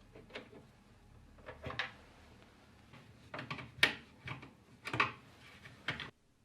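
Light clicks, taps and knocks of computer parts being handled during a PC build, coming irregularly, with the sharpest clicks about four and five seconds in; the sound cuts off abruptly near the end.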